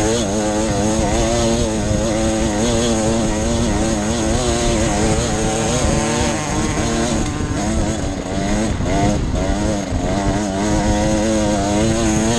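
Off-road enduro motorcycle engine running under load, its revs rising and falling continuously as the rider works the throttle, with a short dip in revs about halfway through.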